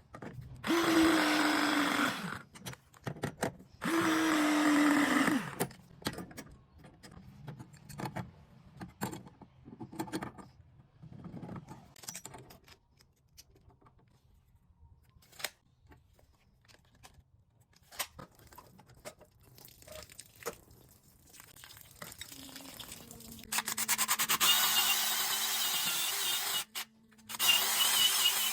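Cordless drill/driver running in short bursts. In the first two bursts the motor pitch drops as it loads up, as when driving a screw or drilling. Between bursts there are scattered clicks and knocks of handling tools and fittings, and two longer, steadier runs of the drill near the end.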